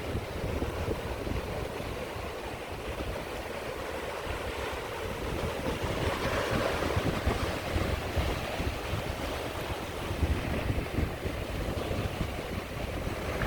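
Sea waves washing onto a beach, with one wave swelling and breaking a little past the middle. Wind buffets the microphone with a low rumble throughout.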